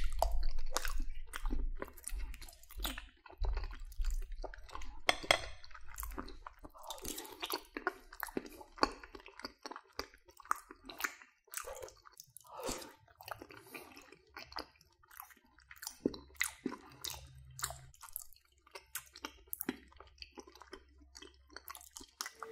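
Close-miked chewing of a mouthful of creamy mac and cheese: irregular wet smacks and soft squishing clicks, loudest in the first few seconds and then sparser.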